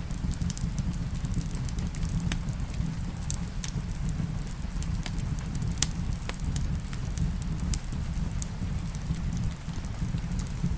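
Fireplace burning with a low steady rumble and scattered sharp crackles and pops, one louder pop a little past halfway, over a soft steady rain hiss.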